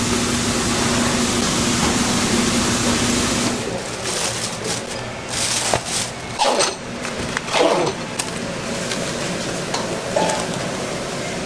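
A steady rushing noise with a low hum for the first three and a half seconds, then scattered clicks and clatter with brief faint voices: busy restaurant kitchen noise.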